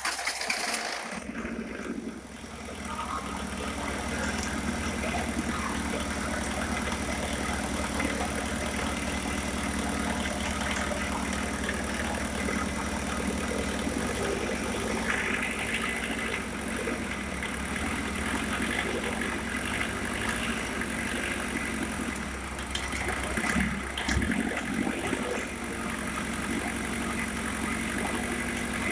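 Diesel engine idling steadily after its fuel system has been bled of air, running normally.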